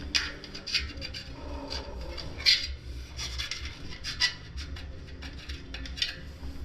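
Irregular scraping and rubbing as old dried tubeless sealant is cleaned off a bicycle wheel rim and tyre bead, with a couple of sharper clicks.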